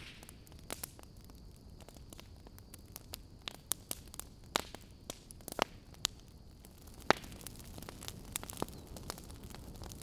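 Fire crackling, with sharp irregular pops and snaps over a low steady rush; the loudest pops come right at the start and about seven seconds in.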